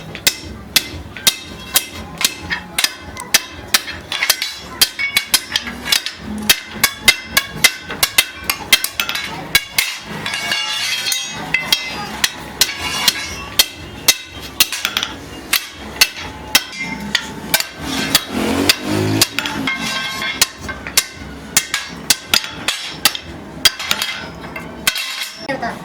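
Hammer blows on metal in a workshop, struck repeatedly at about two to three a second, each a sharp clank with a short ring, pausing briefly near the end.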